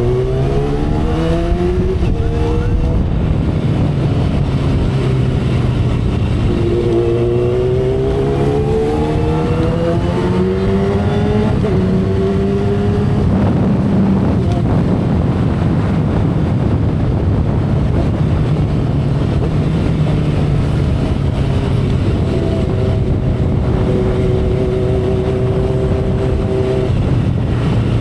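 2012 Kawasaki Ninja ZX-10R's inline-four engine pulling hard, its note climbing in pitch twice with a drop between as it shifts up, then holding a steadier note near the end. Heavy wind rush runs underneath.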